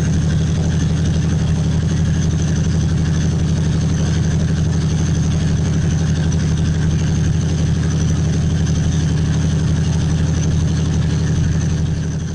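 Diesel locomotive engine running steadily at a constant speed just after a cold start, a deep, unchanging drone.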